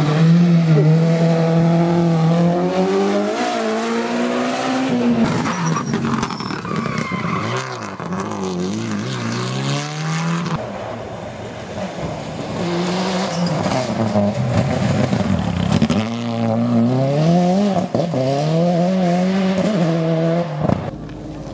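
Rally car engines revving hard, the pitch climbing and dropping sharply over and over as the cars accelerate, shift and lift off through a stage. The sound changes abruptly twice, as if cutting to another car or pass.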